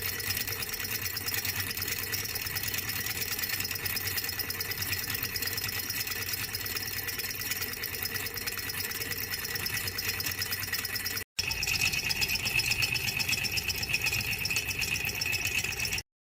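Small educational hot-air Stirling engine running steadily, its pistons and linkage rattling rapidly. About eleven seconds in the sound cuts for an instant and comes back louder with a higher whine on top, then stops abruptly near the end.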